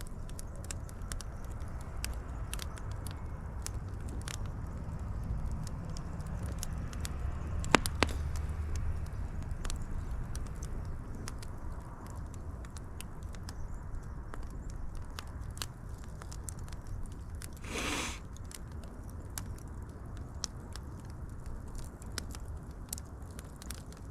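Wood fire burning with a low steady rumble and frequent irregular crackles and pops. One sharp pop about a third of the way in is the loudest, and a brief hiss comes about three quarters of the way through.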